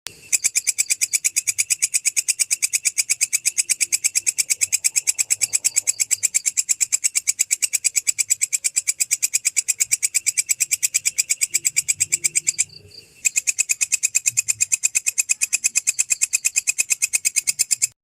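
Cricket-type insect stridulating: a fast, even train of high-pitched chirp pulses, several a second, that breaks off for about half a second near 13 s in and then resumes.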